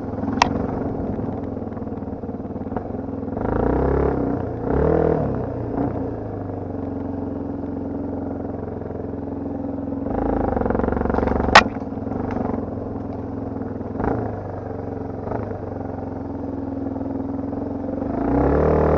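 Dirt bike engine running under way, revving up and easing off several times. A few sharp knocks cut through it, the loudest about eleven and a half seconds in.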